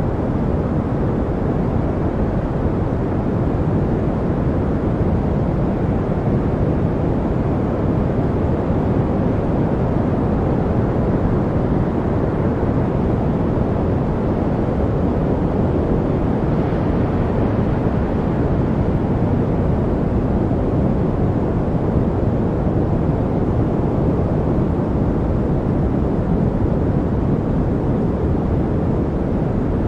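Steady, unchanging noise played as a white-noise track for studying, with most of its energy low: a deep, even rush with little hiss.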